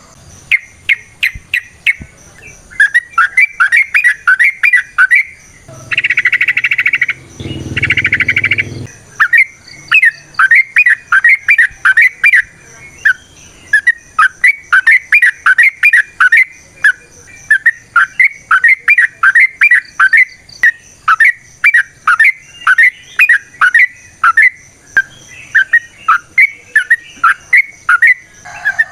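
Yellow-vented bulbul (trucukan) singing a long, unbroken chattering run of short notes, several a second. Two harsher, buzzier bursts break in about six and eight seconds in.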